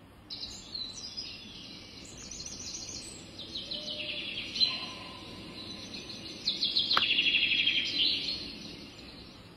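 Birdsong: a run of high chirps and rapid trills, with a single sharp click about seven seconds in.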